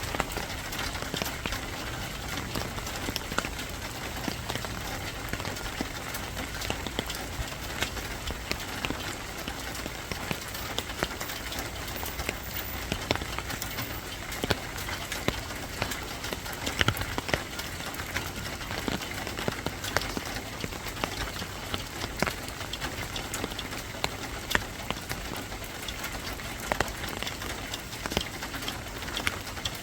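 Steady rain falling, a constant hiss with a dense, irregular patter of drops striking a hard surface.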